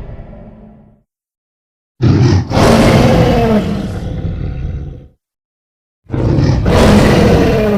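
Dinosaur roar sound effects made for an animated creature: one roar trails off, and after about a second of silence a roar of about three seconds follows, then another starts near the end. Each roar opens with a short burst and a brief break before the long call.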